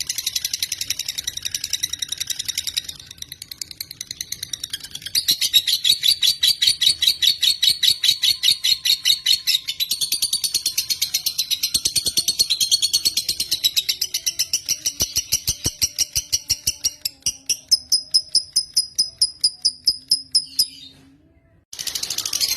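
Lovebird (Agapornis) singing a long, rapid chattering trill of high repeated notes. It grows louder about five seconds in, breaks off briefly near the end, then starts again.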